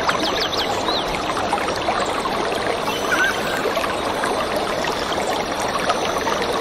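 Stream water running steadily, with small birds chirping over it: a quick series of high notes right at the start, then a few scattered chirps.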